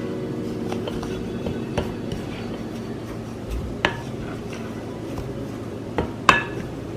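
A utensil stirring dry muffin ingredients (flour, sugar, baking powder, cinnamon, salt) in a mixing bowl, with a few sharp clinks of the utensil against the bowl.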